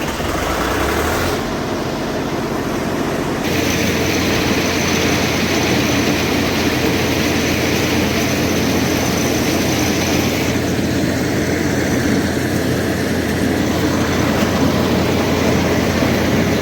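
Tractor engine running steadily while driving a paddy-hulling machine. About three and a half seconds in, the sound grows fuller, and a thin high whine runs for several seconds.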